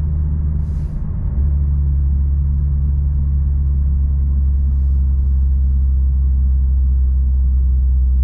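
Infiniti Q50S V6 engine and modified catback exhaust with Vibrant resonators, heard inside the car's cabin while cruising: a steady low drone. It dips briefly about a second in, then holds even.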